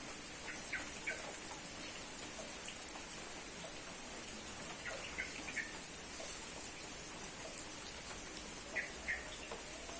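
Steady rain falling, a constant hiss. A few short high sounds come in pairs: about a second in, around five seconds, and near nine seconds.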